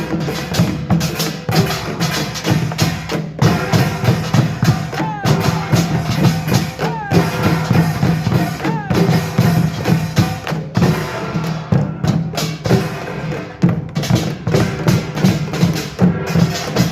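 Korean pungmul ensemble of small gongs and drums playing together in a fast, dense, driving rhythm.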